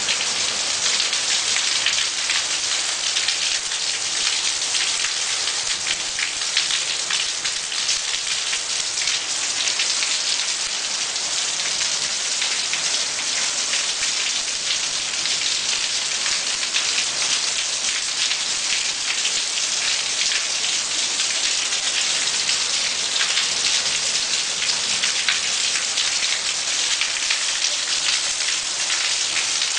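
Heavy rain mixed with hail, a dense steady downpour with countless sharp individual hits on hard surfaces.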